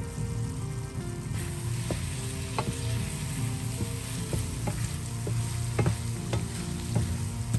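Minced chicken with red pepper sizzling in oil in a frying pan, stirred with a wooden spatula that knocks and scrapes against the pan several times. The sizzle grows louder about a second in.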